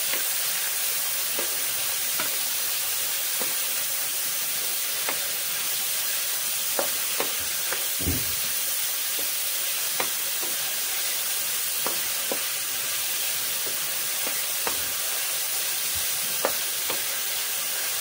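Chicken pieces sizzling as they are sautéed in hot oil in a metal frying pan, with a steady hiss and irregular taps and scrapes of a wooden spatula stirring them against the pan.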